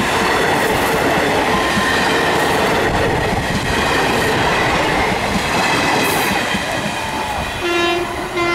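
Indian Railways passenger train running past at speed, its wheels clattering over the rail joints, with a thin steady squeal over the rumble. Near the end, two short horn blasts.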